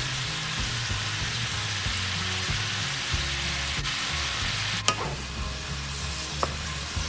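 Vegetables and chicken sausage sizzling in hot oil in a pan as they are stirred, with a utensil clicking against the pan twice in the second half.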